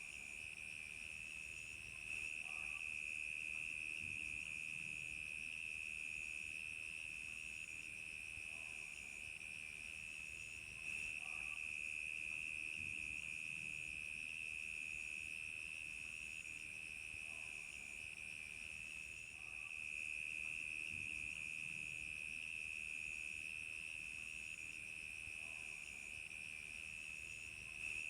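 Crickets chirping in a continuous, even trill, with a fainter, higher chirping that pulses at a steady rhythm above it.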